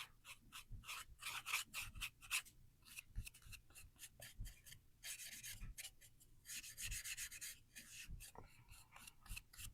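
Paintbrush stroking paint onto a small wooden jar: faint, quick, scratchy brush strokes one after another.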